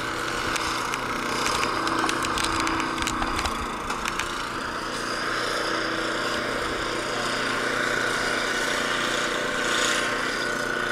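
An engine running steadily, with a scattering of sharp clicks and crunches over the first few seconds.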